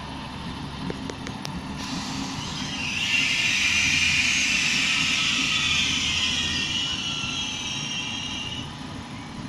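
Passenger train passing on the tracks: a low rumble under a high-pitched hiss and screech of wheels on the rails, building about two seconds in, loudest through the middle and fading near the end.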